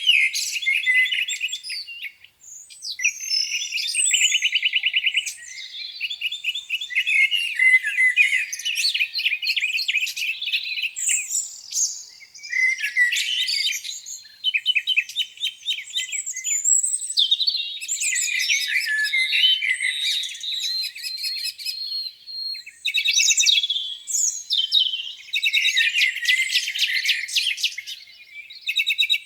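Many songbirds singing at once in a spring morning chorus: overlapping warbled phrases, chirps and fast rattling trills, with no gaps. There is no low sound under the birdsong.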